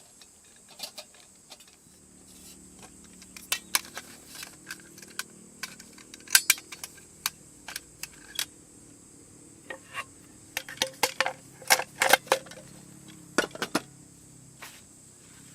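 Irregular clinks and knocks of small hard objects being handled, in clusters, busiest about six seconds in and again over the last third.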